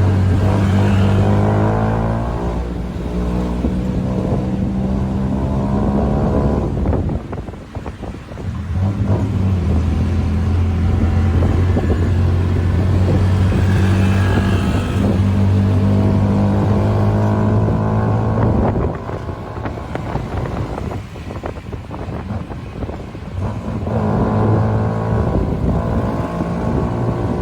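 Tuk tuk engine running loud and hard, its note steady for long stretches. The note dips briefly about seven seconds in, drops back for several seconds past the middle, then picks up again near the end.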